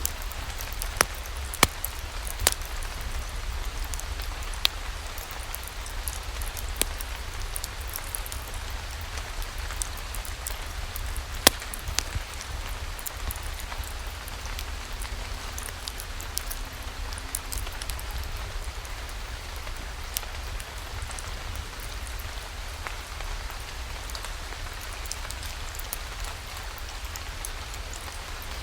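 Steady rain, with scattered sharp pops of a wood fire crackling, several in the first dozen seconds and the loudest about eleven seconds in.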